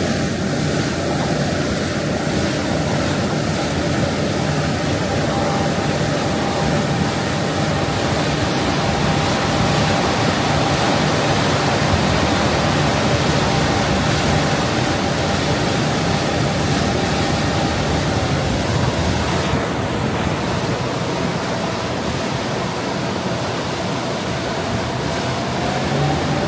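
Thames Clippers Uber Boat passenger catamaran under way: a loud, steady rush of water and air with a steady engine drone and whine running through it, rising slightly in pitch near the end.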